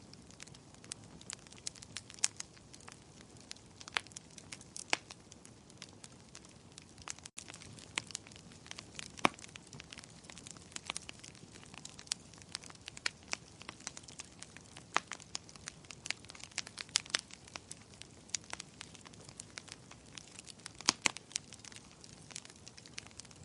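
Wood fire crackling: irregular sharp pops and snaps, several a second, over a soft steady hiss of burning.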